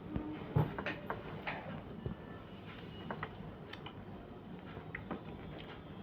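Eating sounds: scattered small clicks and taps of food being handled and eaten from a plate, with one louder knock about half a second in.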